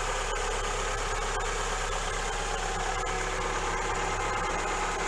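Toyota Celica ST204's 2.2-litre 5S-FE four-cylinder engine idling steadily, heard up close in the open engine bay.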